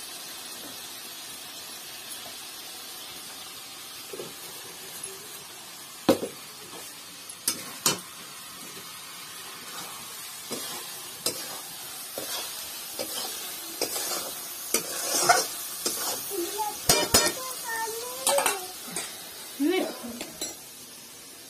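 Small fish frying in a steel wok over a wood fire, with a steady sizzle. A metal spatula stirs and scrapes against the pan, and there are several sharp clinks, busiest in the second half.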